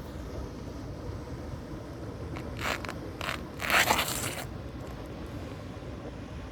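Steady wind rumble with three short scraping sounds about two and a half to four and a half seconds in; the last is the loudest and lasts nearly a second.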